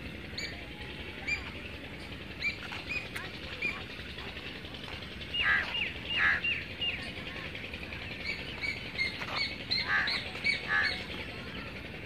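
Birds chirping and calling in the open, short high chirps throughout, with louder runs of calls about five to six seconds in and again near ten seconds, over a steady low background noise.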